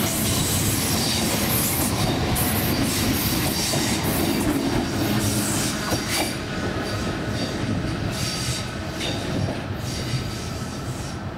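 DART electric trains on the rails: a passing train's wheels rumbling by, then a Class 8100 DART unit coming over the junction points and curve, with wheel squeal and repeated clicks and clatter over the switches.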